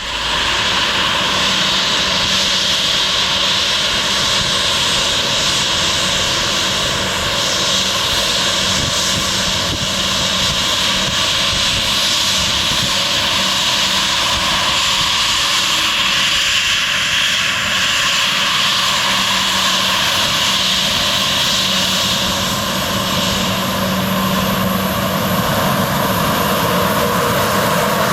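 Airliner engines running loud and steady at high power, with a high whine over a low drone. The sound starts abruptly.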